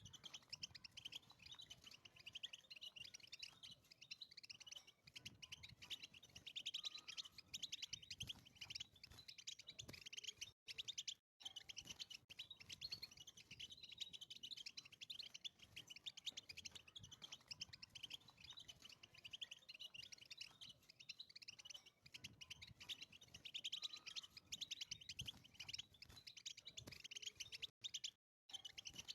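European goldfinch singing: a fast, continuous run of high twittering and trilled notes that breaks off briefly twice.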